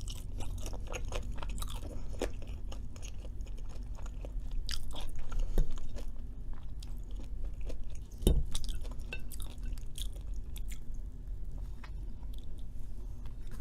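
Close-miked chewing and biting of soft, oily homemade Cajun fries, with many small wet clicks and a few louder crunches about five and eight seconds in.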